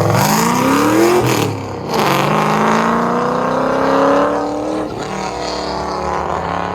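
A car accelerating away hard: the engine revs climb, drop briefly at a gear change about a second and a half in, then climb again through the next gear before the sound levels off and fades as it drives away.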